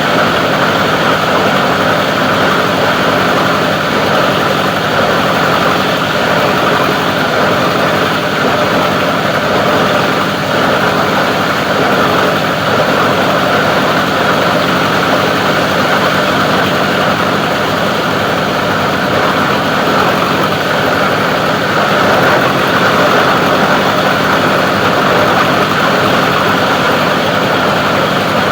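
Plastic recycling grinding machine running steadily at a loud, even level.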